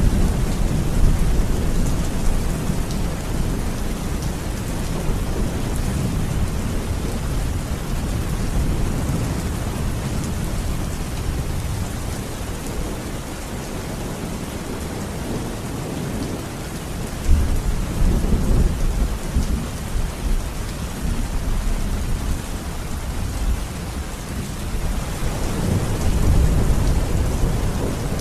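Steady rain falling with deep rolling thunder underneath, the rumbles swelling and fading, with a sharper clap about two-thirds of the way through and another swell near the end.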